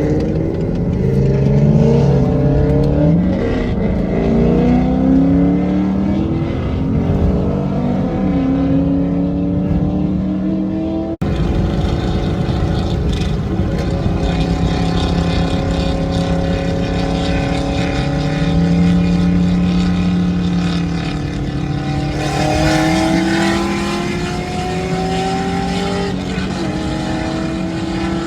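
Car engine accelerating hard through the gears while driving, its pitch climbing and then dropping back at each upshift; after a short break it pulls more slowly in a higher gear, with two more shifts near the end.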